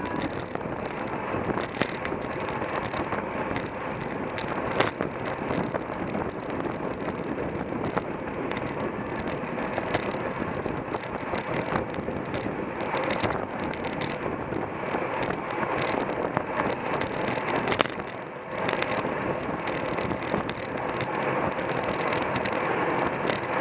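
Steady wind rush on a bicycle-mounted camera's microphone with tyre and drivetrain noise from a racing bicycle at speed, broken by scattered clicks and a brief lull about three quarters of the way through.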